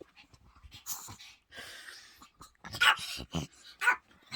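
Pomeranian puppy whining in a string of short bursts, the loudest about three seconds in, pestering its owner to get up.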